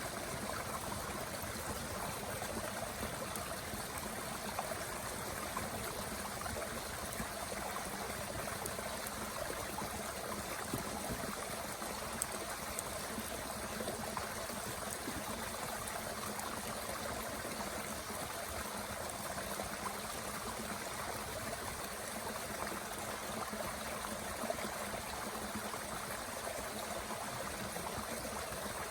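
Mountain stream rushing steadily, with a few faint sharp crackles from a small wood fire burning in a Bush Box stove.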